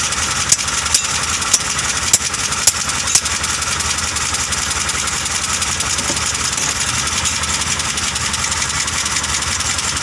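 Overhead-valve pushrod engine idling with its valve cover off and the rocker gear exposed, with about six sharp clicks in the first three seconds as the rocker gear is worked by hand. The engine runs rough on one cylinder: a valve lifter or pushrod there is sticking and not following the camshaft, which the mechanic takes for the cause of the misfire.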